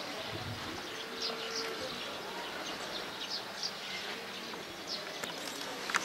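Outdoor ambience: a steady background hiss with scattered short, high bird chirps every second or so.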